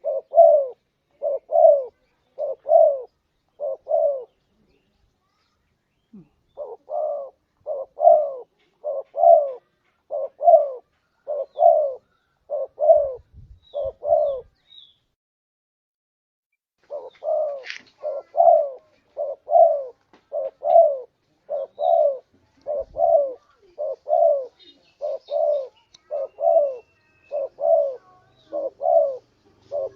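Spotted dove (tekukur) cooing: low coo notes repeated about every half second in long series, with two pauses of a couple of seconds between series.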